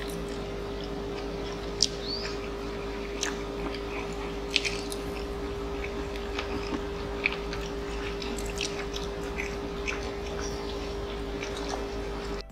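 Close-miked mukbang eating sounds: two people chewing Korean food, with scattered short wet smacks and clicks of mouths at work. A steady low hum runs underneath.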